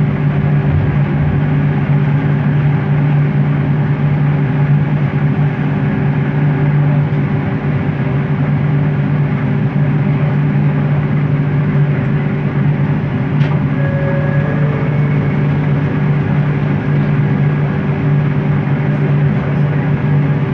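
Bombardier Innovia ART 200 metro train running at a steady speed, heard from inside the car: the linear induction motors give a steady deep hum and a fainter higher tone over the rolling noise.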